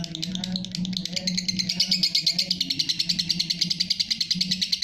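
Lovebird giving a long ngekek: a rapid, unbroken, high-pitched chattering trill that grows louder about a second in.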